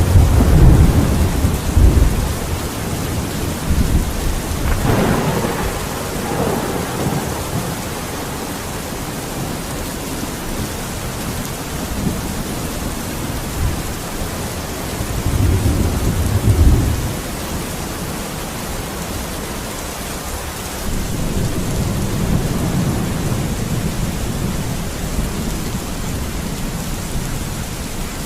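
Steady heavy rain with rolling thunder: a rumble dying away in the first two seconds, a sharper crack about five seconds in, another rumble peaking around sixteen seconds, and a longer low rumble rolling in after about twenty-one seconds.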